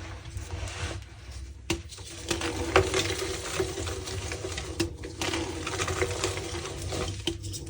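Reformed blocks of gym chalk being crushed and crumbled by hand, a dense run of crunching and crackling that pauses briefly a few times. A steady low hum lies underneath.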